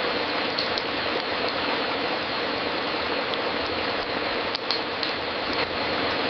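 Fireplace fire crackling: a steady hiss with scattered sharp pops, a pair of louder ones about two-thirds of the way in.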